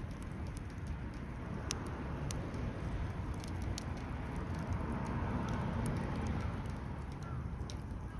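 Wood fire crackling in a fire pit: scattered sharp pops and snaps over a steady low rumble that swells a little around the middle.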